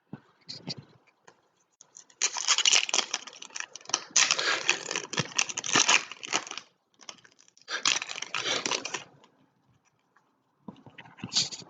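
Foil trading-card pack wrappers being torn open and crinkled, in four bursts of a second or two each.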